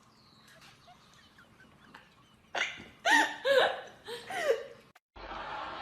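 A pet's quick run of about five short, high calls, each rising and falling in pitch, starting about halfway through after a near-quiet start.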